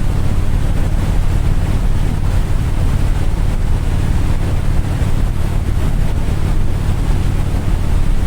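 A steady low engine rumble under heavy wind noise on the microphone, unbroken throughout.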